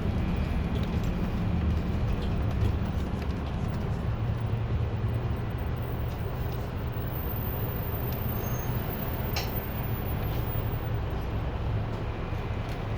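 City bus driving, heard from inside the cabin at the front: a steady engine drone and road noise, with a single sharp click about nine seconds in.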